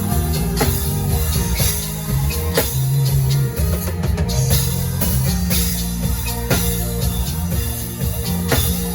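Live band playing worship music without singing: a drum kit hits about once a second over held bass notes and keyboard chords.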